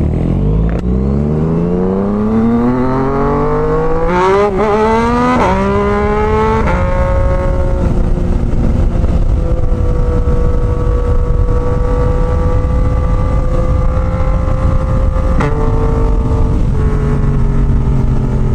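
Yamaha MT-09's three-cylinder engine pulling away, its note rising steeply through the gears with three quick upshifts in the first seven seconds, then running steady at cruising speed. Its pitch drops in two steps near the end as the bike slows. Wind rushes underneath throughout.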